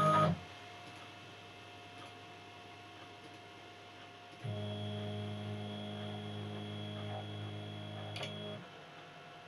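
Stepper motors of a CNC 2417 desktop milling machine driving an axis: a steady drone that starts about halfway through, runs for about four seconds with a small click just before it stops. Between moves, a faint steady electrical hum.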